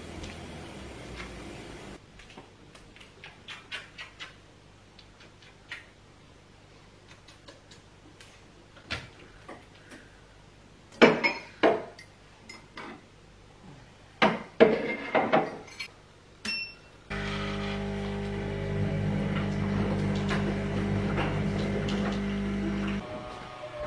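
Dishes and cutlery being handled in a kitchen: scattered light clicks and knocks, with two louder clattering bursts in the middle. About seventeen seconds in, a household appliance starts humming steadily, then stops suddenly near the end.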